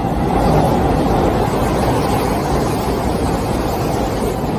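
Hanshin 1000 series electric train passing close by at speed, a loud steady rush of wheels on rails and moving air.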